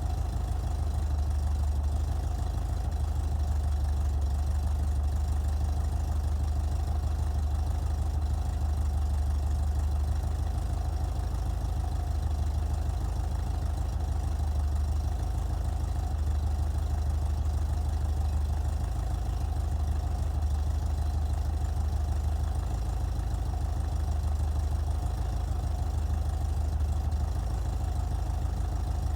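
A 1967 Vintage Speedster's engine idling steadily as it warms up from a cold start.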